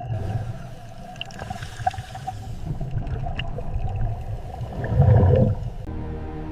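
Walrus calling: a low rumbling vocalization that swells into a louder call about five seconds in. Near the end, steady tones take over.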